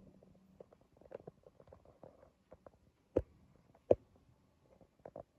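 Hands handling small plastic toys and packaging: scattered light clicks and taps, with two sharper clicks a little over three seconds in and just under a second apart.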